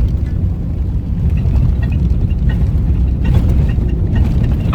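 Truck driving along a road: steady low rumble of engine and road noise.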